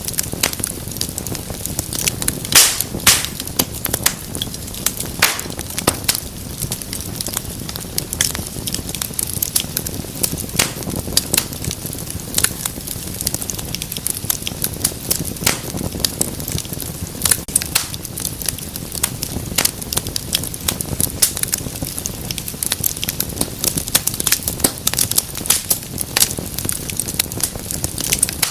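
Wood fire burning in a fireplace, crackling steadily with frequent irregular snaps and a few louder pops over a soft hiss of flame.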